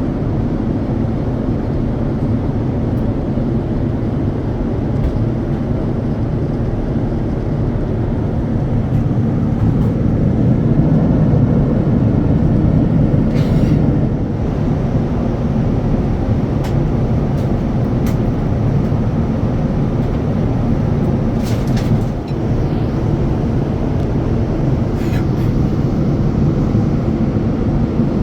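Steady low rumble of cabin noise aboard a Boeing 787-9 airliner, swelling a little midway, with a few faint clicks.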